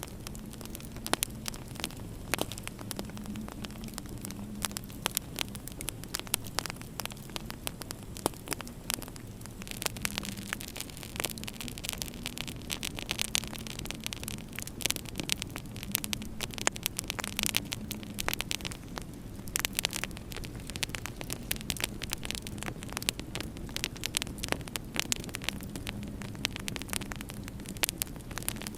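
Fireplace fire crackling, with frequent sharp pops at irregular intervals over a steady low hum.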